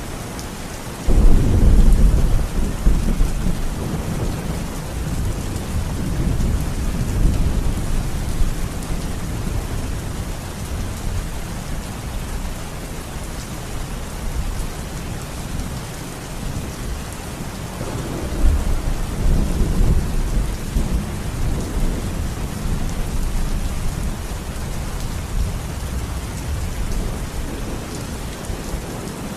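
Steady rain with rolling thunder: a deep rumble breaks in suddenly about a second in and rolls off over several seconds, and a second, smaller roll swells up about two-thirds of the way through.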